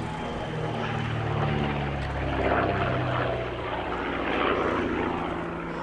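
de Havilland DH.88 Comet racer's twin de Havilland Gipsy Six piston engines and propellers running in flight, the engine note shifting in pitch and swelling in loudness twice as the aircraft moves past.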